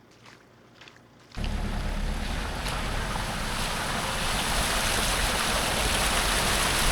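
A few faint footsteps, then, about a second and a half in, a loud steady rush of floodwater that cuts in suddenly and runs on unbroken.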